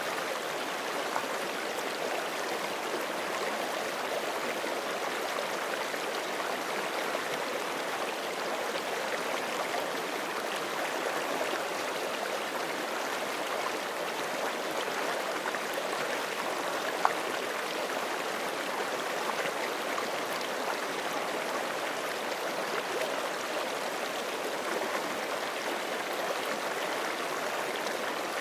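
Forest creek water flowing steadily, an even rushing burble. A single brief click sounds about seventeen seconds in.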